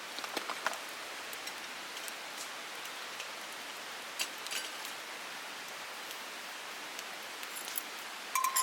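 Meat sizzling in a frying pan: a steady hiss with scattered small pops, and a few sharper clicks near the end.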